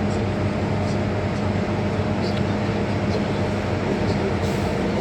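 Cabin noise of an MTR M-Train electric multiple unit running in a tunnel: a steady rumble with a constant low hum and a few faint clicks.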